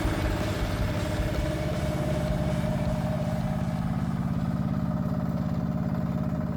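An engine running at idle with a steady, rapid chugging.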